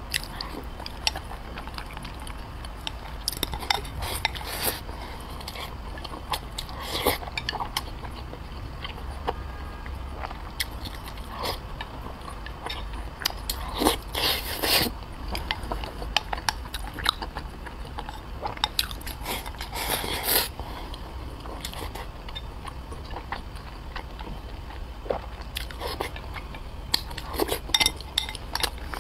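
Close-up eating sounds: chewing and wet mouth smacks on soft braised pork belly and rice, with irregular sharp clicks of chopsticks on a porcelain rice bowl, louder bursts a little before halfway and again about two thirds of the way in.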